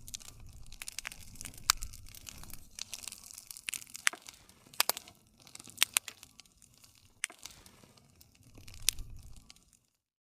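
Wood campfire crackling, with irregular sharp pops and snaps over a low rumble of burning. The sound cuts out abruptly near the end.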